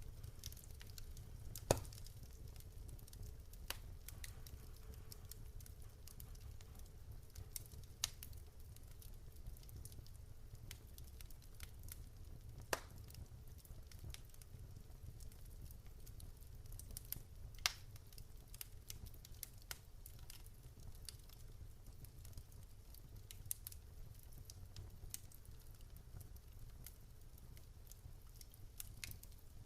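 Wood fire in a fireplace crackling: irregular sharp pops and snaps, a few louder ones about 2, 13 and 18 seconds in, over a steady low rumble of the flames.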